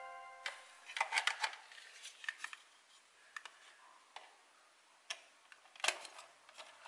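Hollow plastic toy cow pieces clicking and knocking as they are handled and fitted together: scattered light clicks, a quick cluster about a second in and a sharper click near the end.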